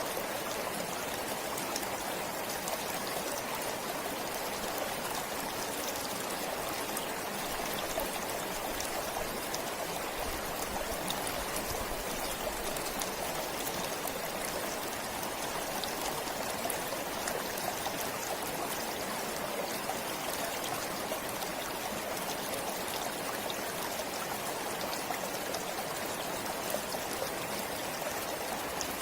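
A stream flowing steadily, an even rush of water with faint small splashes and drips throughout.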